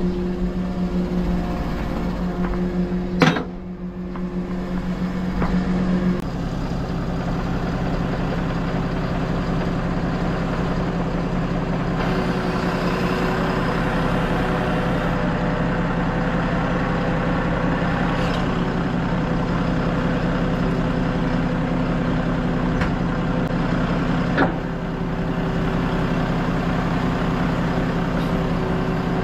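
Heavy truck's diesel engine running steadily, its note shifting about six seconds in. A sharp knock comes about three seconds in and a smaller one near the end.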